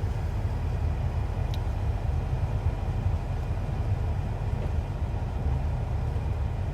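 Steady low rumble inside a car cabin, the hum of a car with its engine running while stationary.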